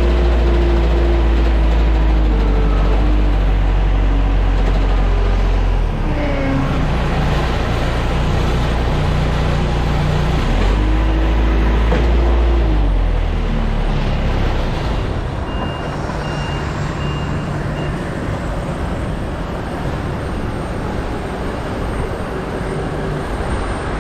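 Airport ground service vehicle engines running and revving, their pitch rising and falling, with a heavy low rumble that eases off a little past halfway. Then a short series of high reversing beeps sounds.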